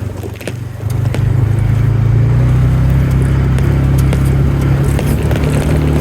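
A vehicle engine running with a steady low hum that grows louder about a second in and then holds steady.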